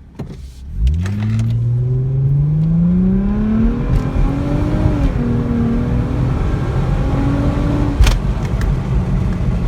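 Infiniti G35X's 3.5-litre V6 accelerating hard, heard from inside the cabin: the engine note climbs steadily, dips briefly at an upshift about five seconds in, then holds high. Near the end a sharp click comes as the revs fall away, leaving steady road noise.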